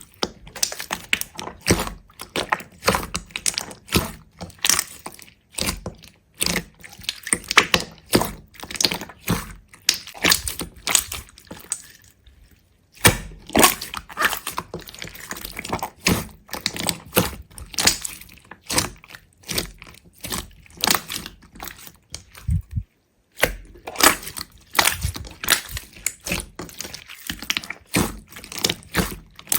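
Close-up crisp crackling and snapping: many short, sharp clicks in quick irregular succession, broken by two brief pauses.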